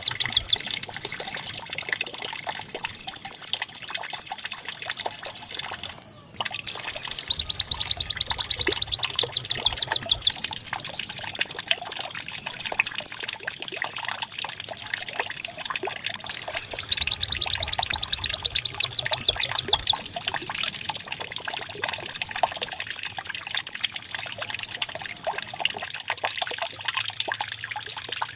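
White-eye (pleci) song played as a lure: a loud, high, rapid trill of repeated notes, a warbled phrase, then another rapid trill. The same phrase comes three times with short breaks between, and the sound drops much quieter near the end.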